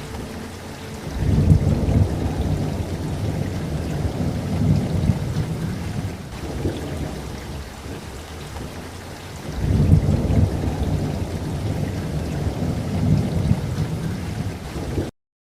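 Steady rain with two long rolls of thunder, the first starting about a second in and the second about ten seconds in. Just before the end the audio cuts off suddenly to silence.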